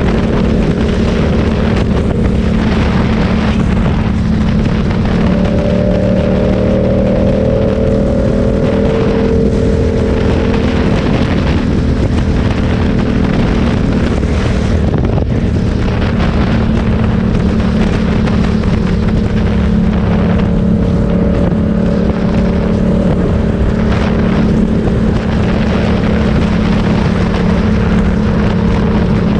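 Motorcycle engine running at steady revs under a constant rush of noise, its pitch shifting only slightly.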